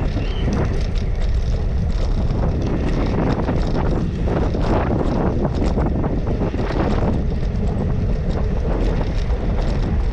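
Wind buffeting the microphone of a camera on a moving bicycle: a steady low rumble, with many small clicks and rattles from the ride.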